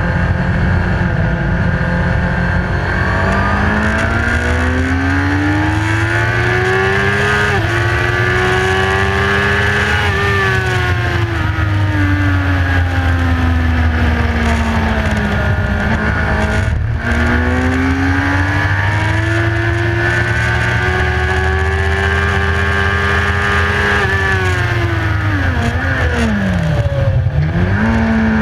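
Onboard recording of a sportbike engine at high revs on a race track, with rushing wind. The engine note climbs, steps down a little at an upshift about seven seconds in, sags gradually as the bike rolls off, cuts briefly at a shift around seventeen seconds, climbs again, then drops sharply and recovers near the end.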